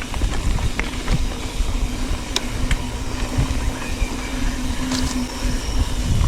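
Mountain bike riding along a dirt trail: wind rumble on the helmet camera's microphone with the bike's rolling rattle, scattered sharp knocks, and a steady hum throughout.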